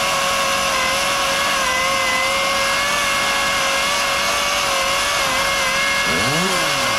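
Chainsaw running flat out at a steady, high pitch while cutting through a fallen tree's limbs. About six seconds in, a second, lower note rises and falls.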